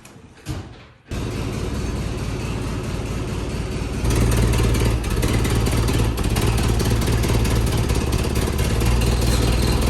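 Vehicle engine running, stepping up to a louder, higher-revving run about four seconds in.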